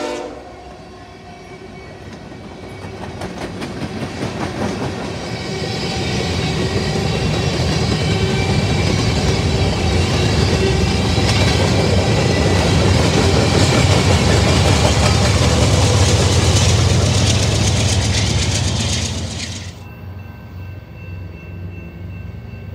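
Freight train of covered hopper cars rolling past at speed: steady rumble and clatter of steel wheels over rail joints, growing louder over the first dozen seconds. A locomotive horn cuts off right at the start, and the train noise drops off abruptly near the end, leaving a fainter low hum.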